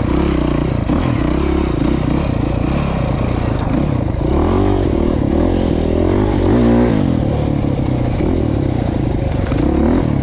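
Off-road vehicle engine running on a trail ride, revving up and down with the throttle, most strongly about halfway through, with rattling from the ride.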